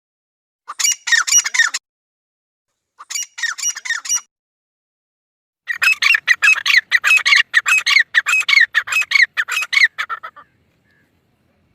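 Female partridge (titar) calling in quick strings of repeated notes: two short bouts in the first four seconds, then a longer run of about five seconds that stops about ten seconds in.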